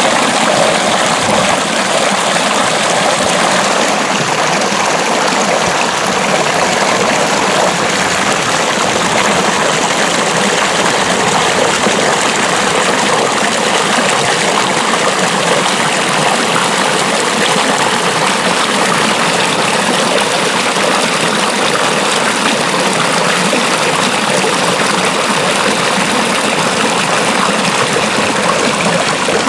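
Water flowing steadily along an irrigation ditch (acequia).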